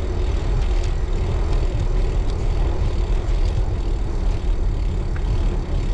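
Wind rumbling on the camera microphone of a moving road bike, a steady low noise throughout.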